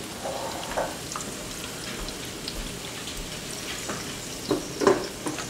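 Chicken flautas frying in shallow oil in a skillet, a steady sizzle with scattered crackles. Near the end come a couple of louder clacks from the metal tongs as a flauta is lifted out of the oil.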